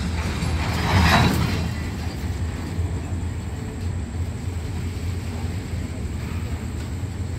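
Train of heavy-load bogie flat wagons rolling slowly past on the rails while being pushed back, a steady low rumble with a brief louder rush of noise about a second in.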